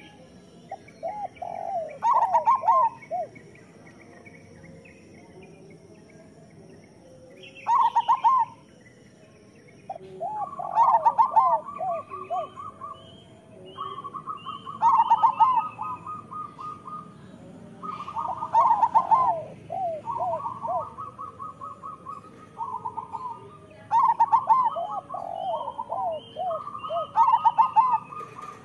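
Zebra doves (perkutut) cooing: a rhythmic phrase of quick bouncing notes repeated every few seconds, about seven phrases in all. Between the phrases come steady trills and higher chirps of other small birds.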